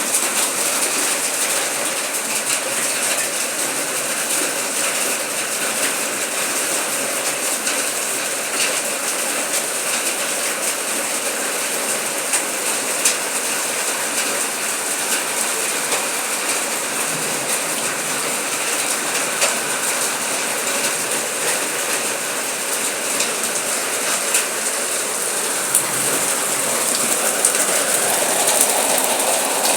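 Heavy rain pouring down in a steady rush, with many scattered sharp taps from drops striking hard surfaces. It grows a little louder near the end.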